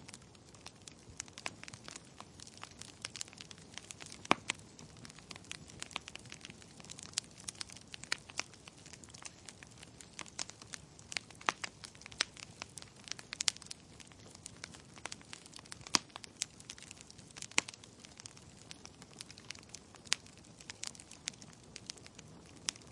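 Wood fire crackling in a fireplace: logs burning with irregular sharp pops and snaps over a low steady hiss.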